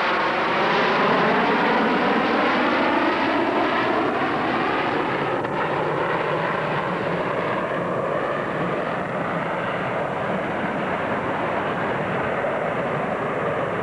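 An airplane's engine roar as it flies past overhead, with a sweeping, phasing tone at first and then fading slowly.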